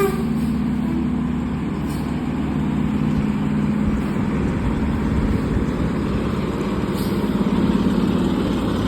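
Seagrave fire engine pumper's diesel engine idling steadily.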